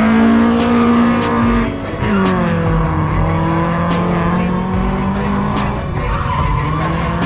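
Drift car's engine held at high, steady revs, dipping briefly about two seconds in and then held again at slightly lower revs, with tyre noise from the slide underneath.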